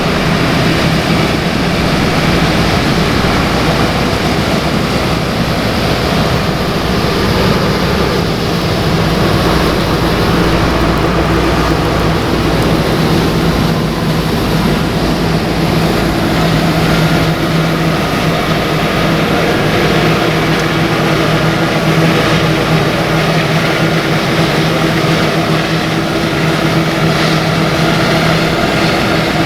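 Large diesel farm machinery running steadily under load, a continuous engine drone with a broad mechanical hum.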